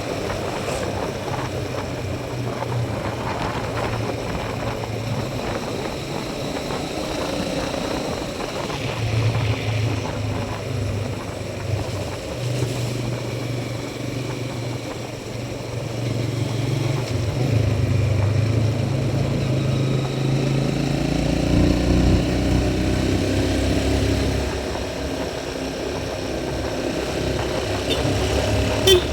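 Motorcycle engine running on the move, its low note rising and falling with the throttle over a steady rush of road noise. A short sharp click sounds near the end.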